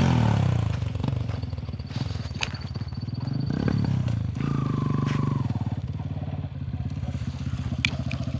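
Motorcycle engine: a loud pass or rev dropping in pitch at the start, then running low and steady, with a short blip of the throttle about halfway through.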